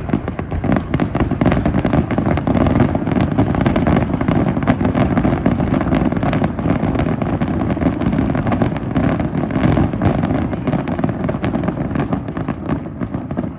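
A dense barrage of fireworks going off: rapid crackling pops layered over deep booms and rumble, with no pause, easing off slightly near the end.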